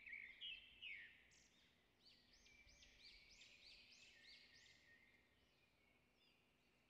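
Near silence with faint bird chirps: a few short chirps in the first second, then a run of about six evenly spaced repeated notes in the middle.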